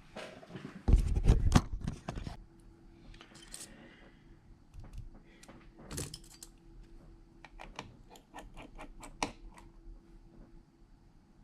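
Small hard clicks and taps from repair tools and phone parts being handled on a workbench. A louder cluster of knocks and handling noise comes about a second in, and a quick run of sharp clicks, about four a second, comes near the end.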